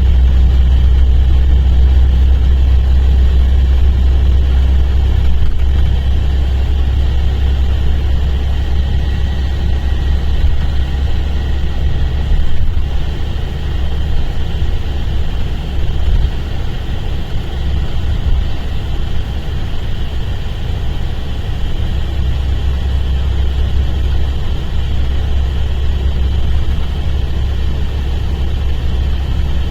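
Mercedes-Benz O-500RSD coach's diesel engine running, a steady low rumble that eases slightly in loudness partway through.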